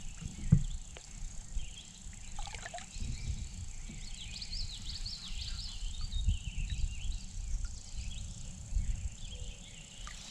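Outdoor pond ambience: low rumbling wind or handling noise on the microphone with a few knocks, the sharpest about half a second in. A bird sings in short chirping phrases for a couple of seconds near the middle.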